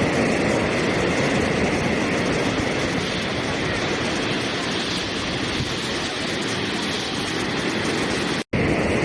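Steady rushing water with an even, continuous hiss and rumble. It cuts out for an instant near the end and resumes at once, like the splice of a looped recording.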